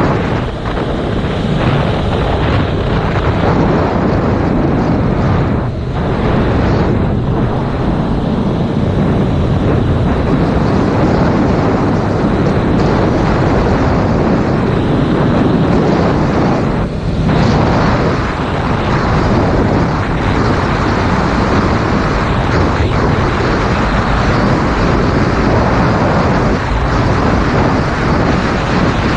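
Heavy wind noise on a GoPro's microphone while riding a 2019 Yamaha MT-07 motorcycle, with its parallel-twin engine running underneath. The noise is steady apart from two brief dips, about 6 and 17 seconds in.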